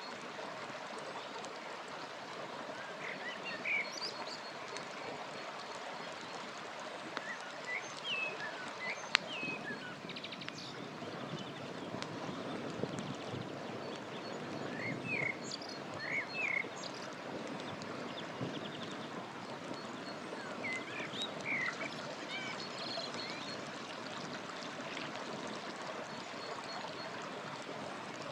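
A river rushing steadily, with small birds chirping on and off over it. Now and then a sharp click or pop of crackling campfire wood, the loudest a little after nine seconds in.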